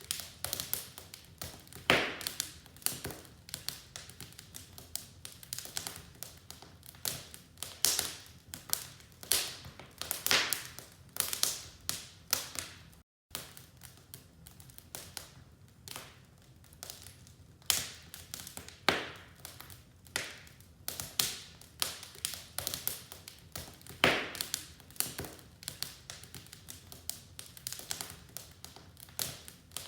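Wood fire in a fireplace crackling: dense, irregular small clicks over a faint hiss, with louder sharp pops every second or two. The sound drops out completely for an instant about thirteen seconds in.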